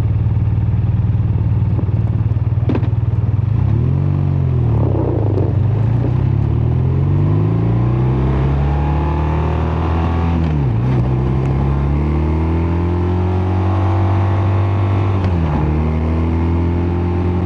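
BMW R12 nineT's 1,170 cc boxer-twin engine and exhaust under way: steady at first, then a brief drop in revs about four seconds in before it pulls up. The pitch then climbs and drops sharply twice, as the bike shifts up through the gears, and settles steady near the end.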